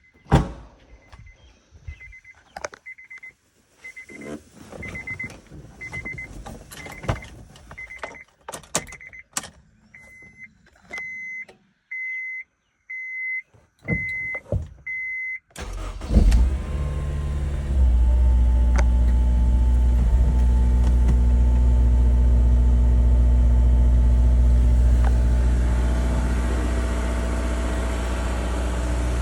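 A car's electronic warning chime beeps over and over, with clicks and knocks from the cabin. About halfway the 2002 Honda S2000's 2.0-litre four-cylinder cranks briefly and catches, then settles into a steady fast idle on a cold start.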